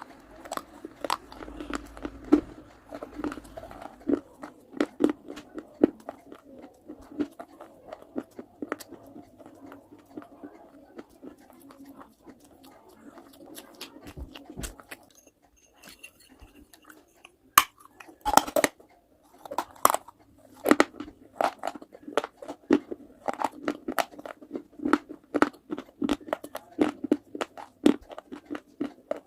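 Close-miked biting and chewing of hard, brittle baked-clay pieces: a dense run of sharp crunches and grinding chews. It eases off for a few seconds a little past the middle, then comes back with a run of the loudest crunches.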